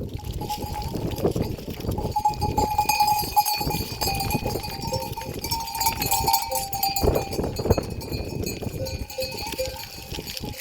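Bells on a flock of livestock clanking as the animals move about, with tones that come and go and quick repeated clinks near the end, over a busy low rustle.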